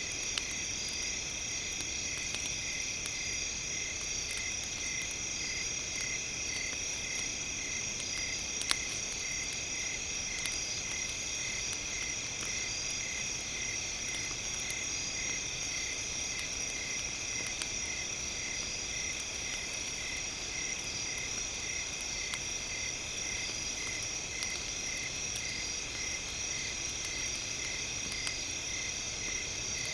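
A steady night chorus of insects, with one chirp pulsing at an even rhythm over a high trilling drone, and a few faint campfire crackles.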